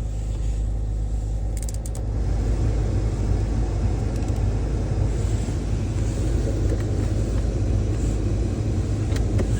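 Kia Spectra's four-cylinder engine idling after a cold start, a steady low rumble that rises slightly in level about two seconds in.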